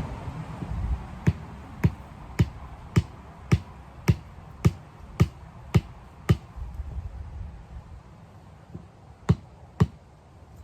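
A tool striking wood in a steady series of sharp knocks, about two a second, ten in a row, then two more near the end.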